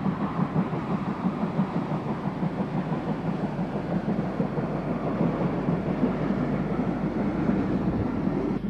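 Steam train running: a steady, dense rumble of locomotive and train noise.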